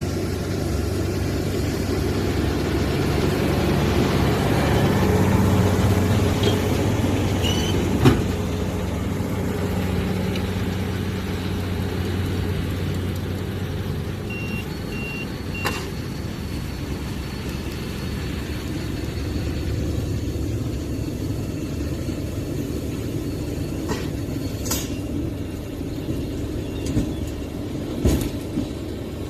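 New Holland T7 tractor engine running steadily while baling silage, with a sharp knock about a quarter of the way in and a few lighter clicks later. A few short beeps sound about halfway through.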